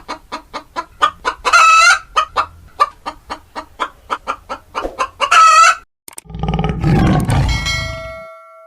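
A chicken clucking in a quick series of about four clucks a second, broken twice by a longer, louder squawking call. About six seconds in, a different, deeper sound takes over, with a ringing tone that fades away.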